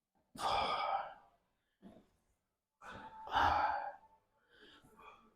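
A man breathing hard with effort while lifting weights: two strong, loud sighing exhalations about two and a half seconds apart, with fainter breaths between and after.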